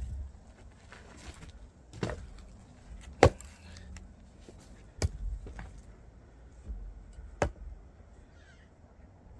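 Axe strikes splitting firewood logs: four sharp chopping blows at uneven intervals, the second the loudest, with a few fainter knocks of wood between them.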